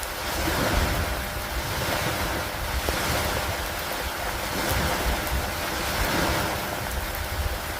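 Storm ambience over open water: steady rain and wind make a dense hiss over a low rumble. The whole sound swells and eases every two to three seconds, like gusts or waves washing in.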